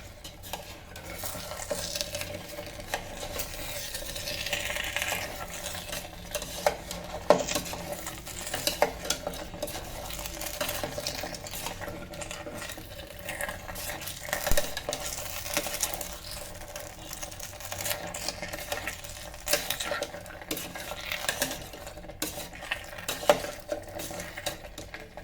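A spoon stirring paneer cubes through thick sauce in the metal pot of an electric kettle, with irregular clinks and scrapes against the pot.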